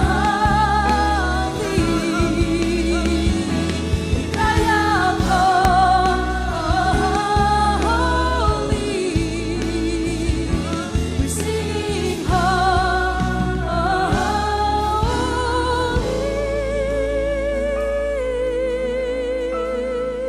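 Worship band and singers performing a gospel-style worship song, with vibrato-laden sung lines over bass and drums. About three-quarters of the way through, the drums and bass drop away, leaving one long held sung note over quieter accompaniment.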